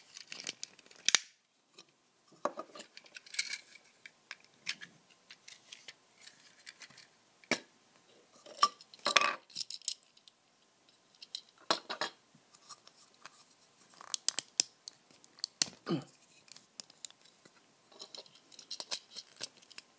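Plastic toy parts clicking and clattering as a train-engine transforming figure is folded and snapped into place by hand, a string of irregular sharp clicks with short rattles between.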